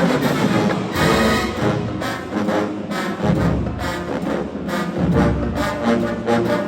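Marching band playing: brass horns over heavy bass drum and percussion hits.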